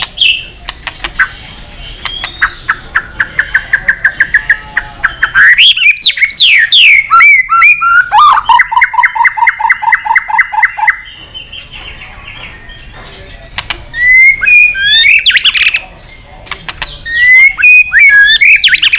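White-rumped shama singing a loud, varied song. It starts with sharp clicks and a quick run of short repeated notes, then gives swooping whistles and a fast rattling trill about halfway through, and ends with more whistled phrases.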